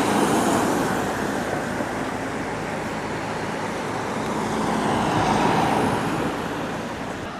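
A motor vehicle running past outdoors: a steady rushing engine and tyre noise that swells about halfway through and then fades.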